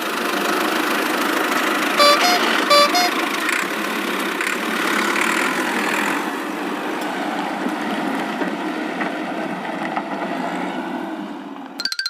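Cartoon vehicle engine sound effect running steadily, with two short horn beeps about two seconds in. The engine sound stops just before the end.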